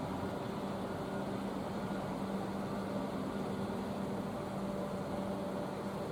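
Steady mechanical hum of a large cruise ship's engines and ventilation, a held low tone over a noisy drone.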